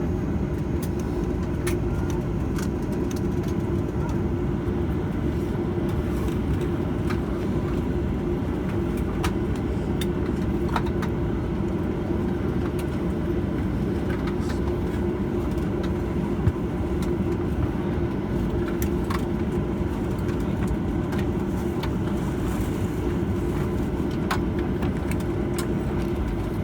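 Cabin noise of a Boeing 737-900ER taxiing after landing: a steady rumble of the idling engines and airflow, with a constant hum and scattered small clicks and knocks.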